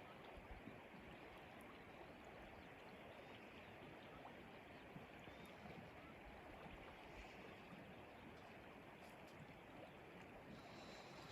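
Near silence: a faint, steady outdoor hiss of ambient noise.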